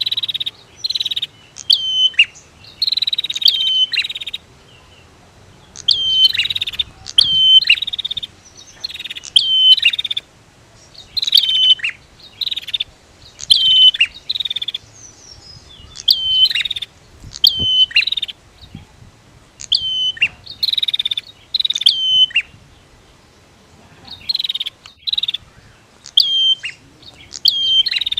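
Prinia calling: a long run of short, sharp chirping notes, each dropping quickly in pitch, repeated about once or twice a second with a few short pauses.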